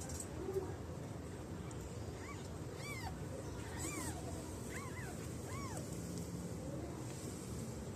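Young kittens mewing: about five short, high, arching mews in quick succession near the middle.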